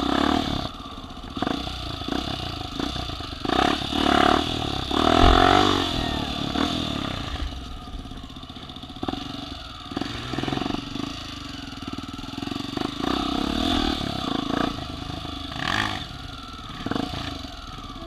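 Off-road vehicle engine running and revving in surges, with some knocks and clatter.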